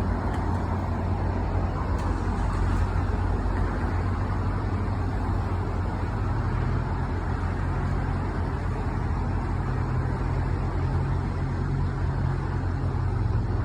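Diesel locomotive engine running steadily with a low hum. About six seconds in, its pitch steps up a little, as when the engine is notched up.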